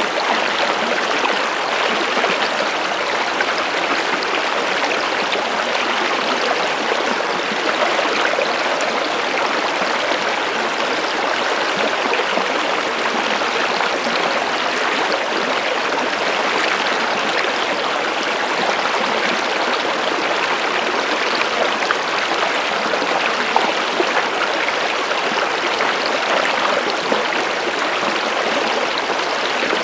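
Stream water running and burbling over rocks in a steady, unbroken rush.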